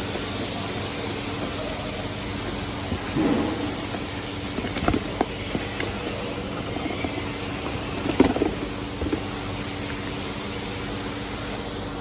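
Toyota Vios engine bay with the engine running steadily, a constant hum of several steady tones under a high hiss, with a few short knocks or clicks now and then. The car is being checked for a noise from the front of the engine that turned out to be the water pump.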